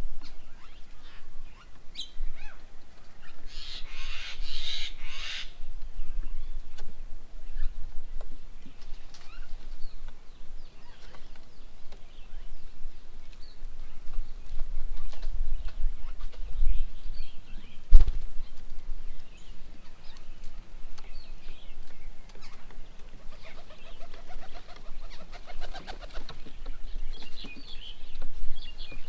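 Birds at a garden feeding table: a flurry of wingbeats and harsh chattering calls, scattered chirps, and one sharp knock about halfway through.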